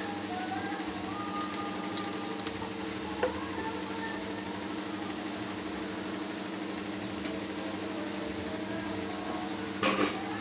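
A steady machine hum, with a single click about three seconds in and a brief, louder noisy burst just before the end.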